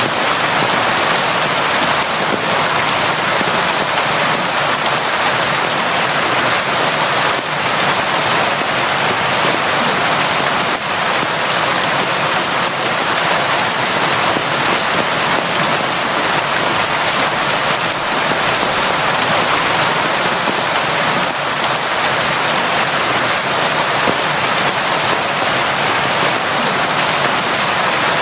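Steady heavy rain: a dense, even hiss of drops with no let-up.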